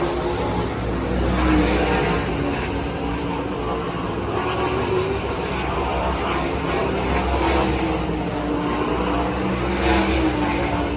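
Sprint car engines running steadily, their pitch slowly rising and falling.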